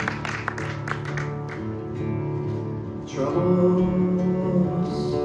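Solo acoustic guitar playing the opening chords of a song, plucked and strummed, growing louder about three seconds in.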